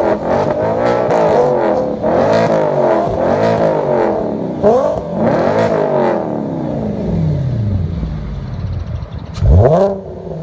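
Car engine with a modified aftermarket exhaust, revved while stationary: quick throttle blips about once a second, then the revs falling slowly back to idle, and one last sharp blip near the end.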